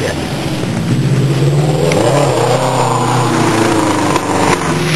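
Rallycross car's engine running hard under acceleration, revving and rising in pitch about two seconds in, as the car comes past close by.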